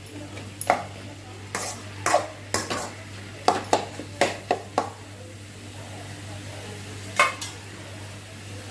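Chicken and capsicum being stirred as they fry in a kadai. The spoon scrapes and knocks against the pan in a quick run over the first five seconds, then once more about seven seconds in, over a faint sizzle.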